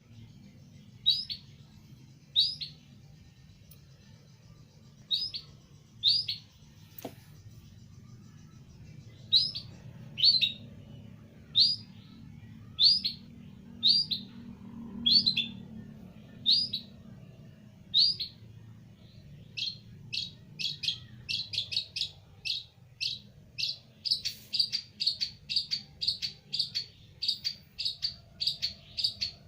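Long-tailed shrike (cendet) giving short, sharp chirps, at first about one every second or two, then quickening into a rapid run of several a second in the last few seconds. A single click sounds near the start, over a faint steady low hum.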